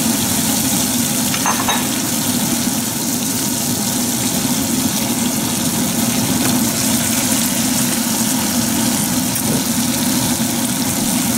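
Soaked dried red chilies and cumin seeds sizzling steadily in hot oil in a wok on the pan's residual heat, with a wooden spatula stirring them near the end. A steady low hum runs underneath.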